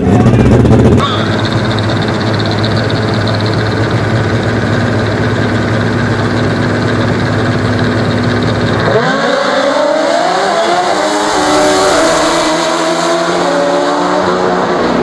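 Drag-racing motorcycle engines: a very loud blast in the first second, then a steady engine drone. From about nine seconds in, an engine note rises again and again as a bike pulls away.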